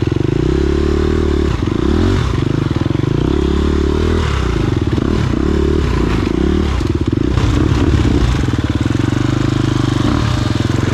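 Off-road motorcycle engine running and revving, its pitch rising and falling again and again.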